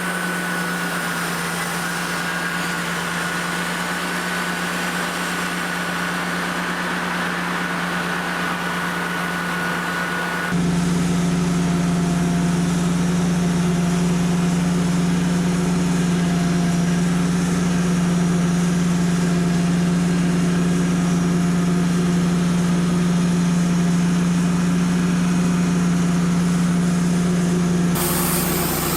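Wood-Mizer LT35 portable bandsaw mill running steadily, its engine humming with a thin high whine over it. The sound changes abruptly about ten seconds in, getting louder and heavier, and changes again just before the end.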